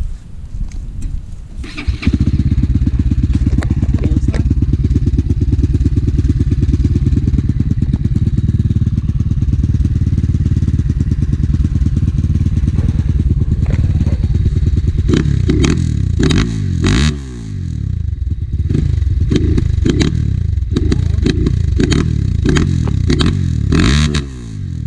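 Enduro motorcycle engine starting about two seconds in after some clatter, running steadily, then revved up and down repeatedly in the second half with brief drops near the end.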